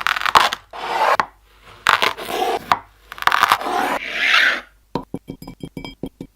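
Kinetic sand being cut and squished, giving about five separate crunchy, scraping strokes. About five seconds in, music with a fast run of plucked notes takes over.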